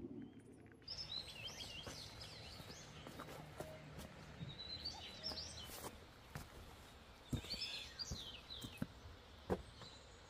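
Birds chirping in several short bursts of quick, curving calls. A few sharp knocks come in the second half, the loudest near the end.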